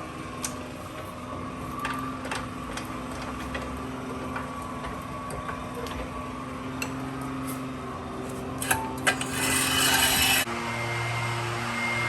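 Garage work noises: scattered clicks, knocks and rubbing over a steady low hum. Near the end comes a loud hiss lasting about a second, after which a steadier machine-like drone sets in.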